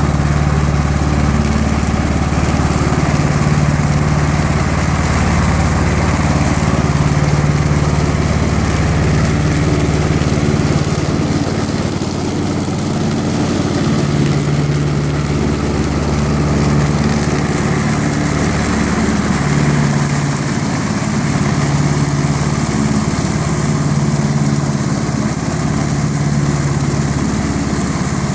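Tractor engine running steadily with a continuous low hum, wavering slightly in pitch and loudness.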